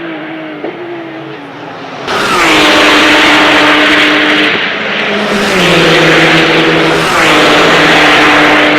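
Porsche 911 GT3 Cup race cars going by at speed with their flat-six engines screaming at high revs. After a quieter first two seconds the sound comes in three loud swells, each opening with a sudden drop in pitch.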